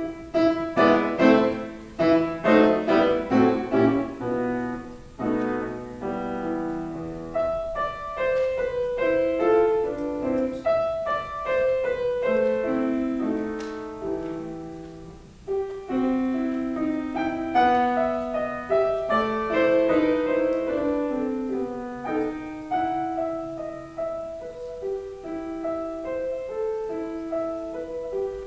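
Solo piano playing a classical piece, with a steady run of separate notes, densest in the first few seconds.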